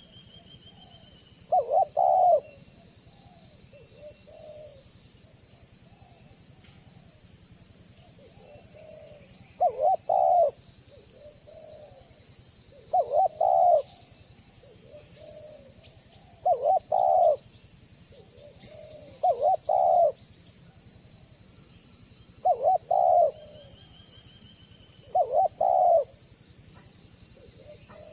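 Spotted dove (tekukur) cooing: short phrases of two or three loud coos, with softer trailing notes between. After one phrase near the start and a pause, the phrases come about every three seconds. A steady high-pitched hiss runs underneath.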